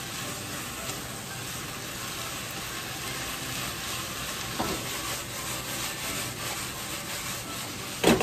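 Chicken, broccoli and carrot sizzling in a hot nonstick frying pan while being stirred with wooden chopsticks, with a steady frying hiss and faint scraping ticks. One sharp knock comes near the end.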